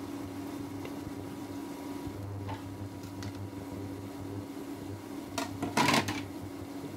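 Chopped onion, garlic, ginger and chillies sizzling gently in hot oil in a pot over the steady hum of an electric cooktop. About five and a half seconds in there is a loud clatter lasting about half a second.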